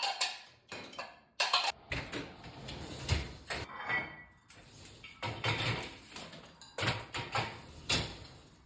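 Irregular knocks and clunks of kitchenware being handled, with short swishing noises between them and a brief ringing clink about four seconds in.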